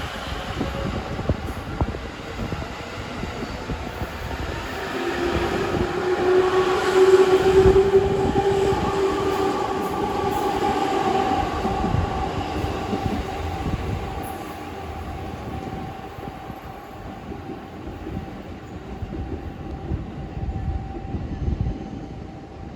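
E257 series electric express train pulling out, its traction motors whining in steady tones, one of them rising in pitch, over the rumble and clatter of wheels on rail. The sound is loudest a few seconds in, then gradually fades as the train draws away.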